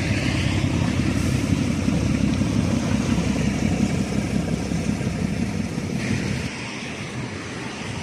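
Low, steady diesel engine rumble of the cargo ships passing close on the river, dropping away about six and a half seconds in.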